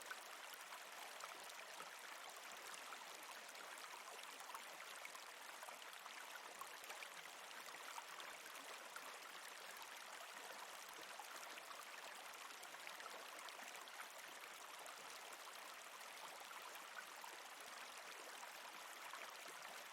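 Faint, steady rush of running water with small scattered splashy ticks.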